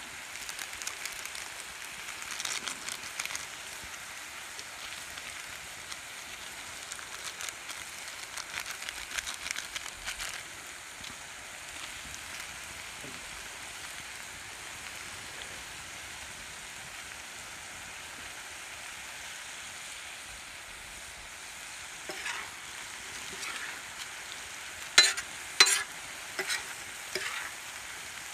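Chicken pieces sizzling in oil on a large flat tawa, a steady hiss. Near the end a steel spoon scrapes and knocks against the pan several times as the chicken is stirred.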